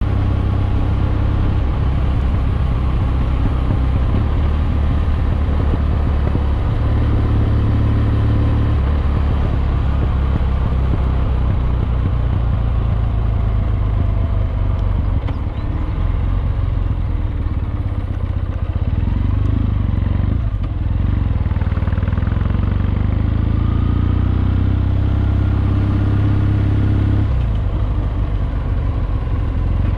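Kawasaki W650's air-cooled parallel-twin engine running through Wyvern Classic mufflers on a moving motorcycle, a steady low exhaust rumble. The engine note changes pitch a few times as the engine speed rises and falls.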